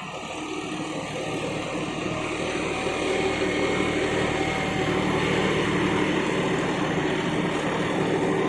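John Deere 5210 tractor's diesel engine running, growing louder over the first three seconds or so and then holding steady.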